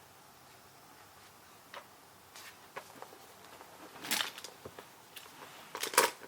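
Sparse, irregular clicks and taps of keyboard typing, with two short, louder flurries about four and six seconds in.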